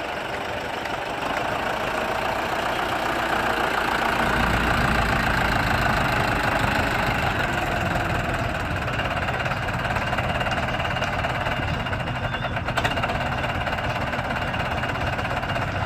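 Tractor engine running steadily, getting somewhat louder about four seconds in.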